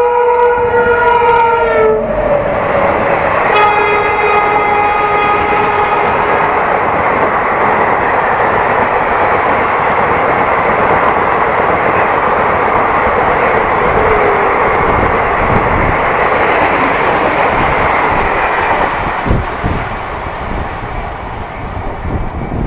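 Shrill multi-tone horn of a WAP-7 electric locomotive passing at speed: one blast ends about two seconds in, and a second, slightly lower blast follows about a second later. Then comes the loud, steady rush of the express's coaches going by, which eases near the end, with wheels knocking over rail joints.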